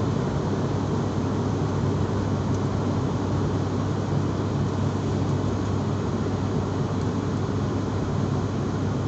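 Aircraft noise: a steady, unchanging low drone with a constant rushing hiss.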